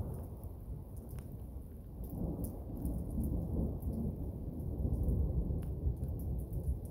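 Thunder rumbling through a heavy thunderstorm, swelling to a peak about five seconds in, over steady rain with scattered sharp ticks of drops.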